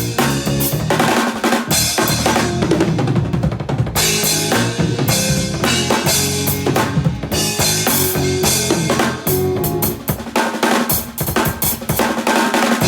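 Drum kit played in fast, dense chops: rapid snare, tom and bass-drum strokes packed tightly together without a break.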